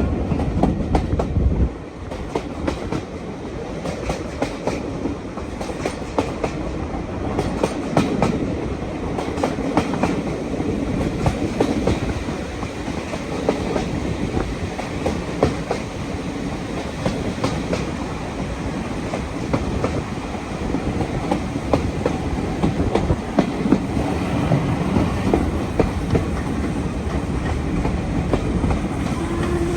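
Railway carriages running along the line: a steady rumble of wheels on rail with many quick clicks and knocks from the rail joints. The deep rumble drops away suddenly about two seconds in.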